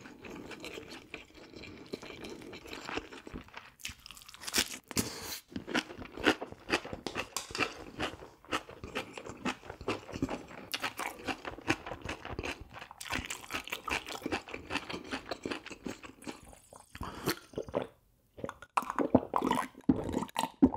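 Close-miked chewing of a mouthful of food, with many irregular crisp crunches and wet mouth clicks.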